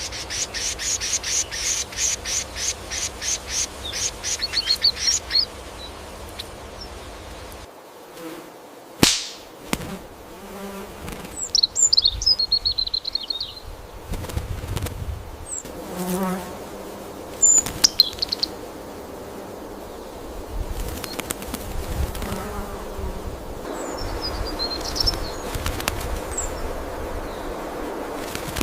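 Rainforest ambience with birds calling: a rapid run of high chirps, about four a second, for the first five seconds, then scattered short chirps and whistles over a steady background haze. A single sharp snap near nine seconds.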